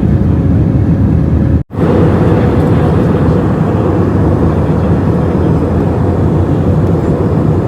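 Steady airliner cabin noise inside an Airbus A320 in flight: the even rumble and hiss of the engines and airflow. It cuts out for an instant just under two seconds in, then carries on.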